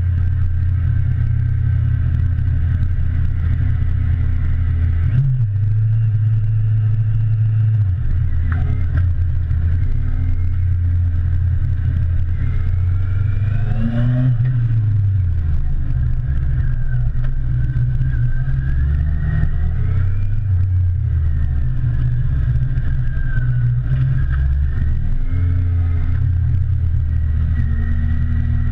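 Motorcycle engine heard from a handlebar-mounted camera while riding, running steadily with its pitch stepping and gliding up and down several times as the rider works the throttle and gears.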